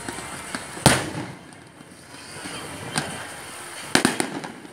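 Aerial firework shells bursting: a loud bang about a second in, another near three seconds, and a quick cluster of bangs near the end, each with a short echoing tail.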